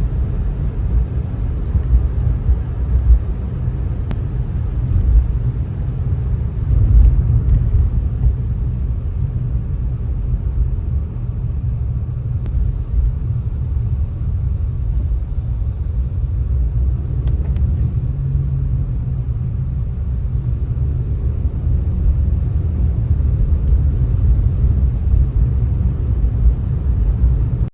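Car driving on a wet road: a steady low rumble of tyres and engine, with a few faint clicks.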